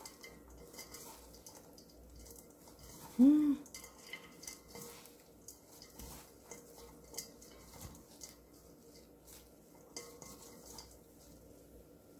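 Garlic chives being tossed by hand with seasoning in a bowl: faint rustling and light clinks against the bowl. About three seconds in comes one short squeaky tone that rises and falls, the loudest sound.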